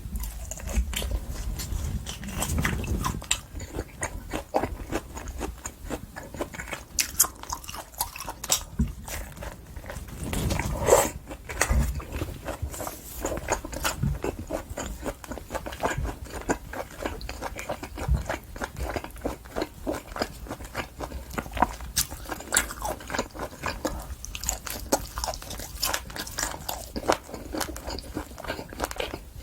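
Close-up eating sounds of a person chewing wagyu top blade steak: steady wet chewing and mouth smacks with frequent soft clicks.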